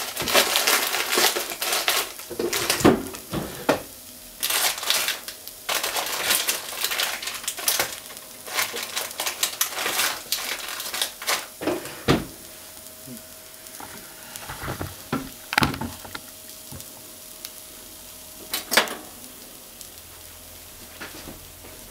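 Potatoes and mentaiko crackling and sizzling as they cook in a pot on a gas stove, as the mentaiko is pan-fried onto the potatoes. The pops come thick and fast at first and thin out after about twelve seconds.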